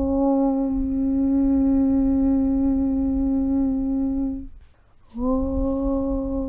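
A voice chanting 'Aum' as one long, steady hum on a single low pitch. It breaks off about four and a half seconds in, and after a short pause the next 'Aum' begins.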